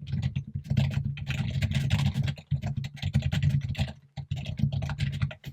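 Fast typing on a computer keyboard, keystrokes coming in a dense rapid run with a heavy low thud to each stroke, pausing briefly about four seconds in before starting again.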